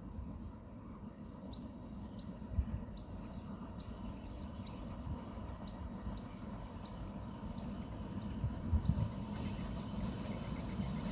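A small animal, likely a bird, repeats a short high chirp about once every two-thirds of a second over a low steady rumble that grows slightly near the end.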